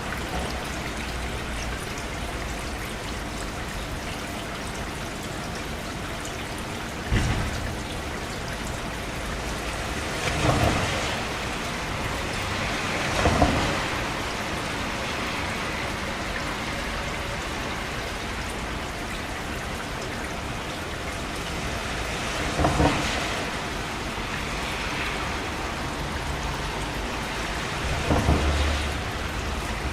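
Steady rain, with five short, louder crashes standing out over it at irregular intervals.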